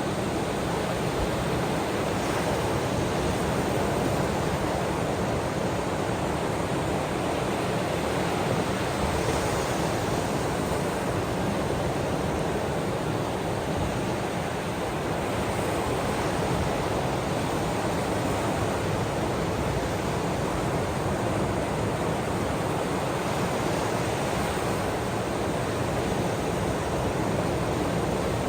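Ocean surf and rain, a steady, even rushing of water with no separate wave breaks.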